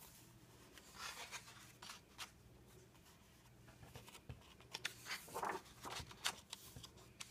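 Faint rustling and soft ticks of heavyweight coloring-book pages being handled and turned, in a few short bursts, the busiest near the end.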